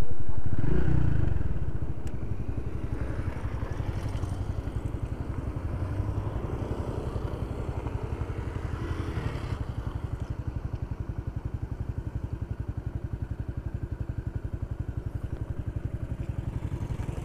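Small single-cylinder motorcycle engine running steadily with an even pulsing beat, louder at first and easing down over the first two seconds.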